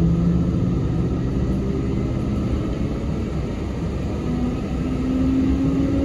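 Sanyo Electric Railway 3050-series train running, heard from inside the car: a steady rumble of wheels on rail, with a drive whine that rises slowly in pitch through the second half.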